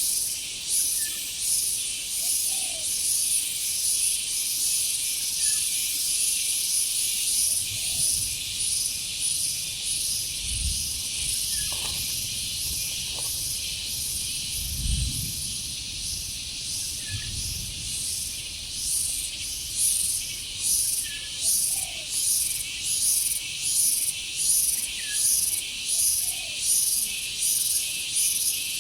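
Insect chorus: a loud, high buzzing that pulses evenly, about twice a second in the second half. There are a few low thuds near the middle.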